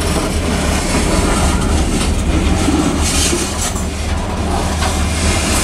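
Covered hopper cars of a grain train rolling past close by: a steady low rumble of steel wheels on the rails, with a spell of wheel clatter about three seconds in.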